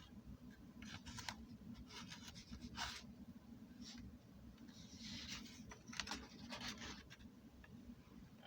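Faint, irregular scratching and rubbing over a low steady hum.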